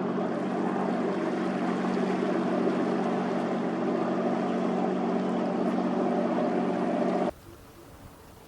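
A boat's engine running steadily with a deep drone over the rush of water, then cutting off suddenly about seven seconds in, leaving only a faint hiss.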